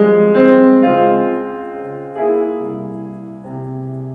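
Piano playing sustained chords between sung phrases, a new chord struck about every second and left to ring.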